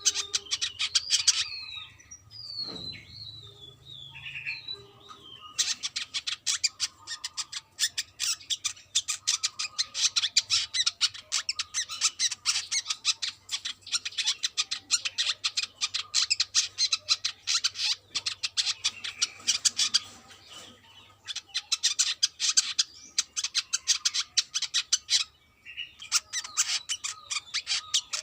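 Brown-throated sunbird (kolibri kelapa) singing: a few falling whistled notes, then long runs of very rapid, high chattering twitters broken by short pauses. A faint low hum lies underneath.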